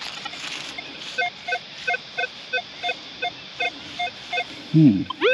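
Minelab Manticore metal detector giving a string of short, pitched beeps, about four a second, as the coil is swept back and forth over a buried target. The response is a slightly scratchy high tone.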